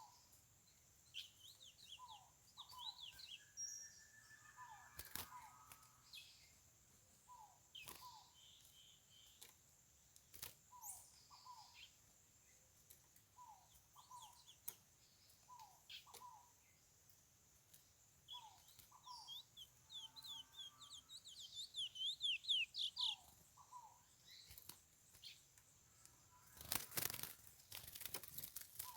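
Faint bird song: short rapid high chirping phrases from a curió (chestnut-bellied seed finch), twice, over a regular two-note call repeating about every second and a half and a steady high insect drone. A cluster of sharp knocks comes near the end.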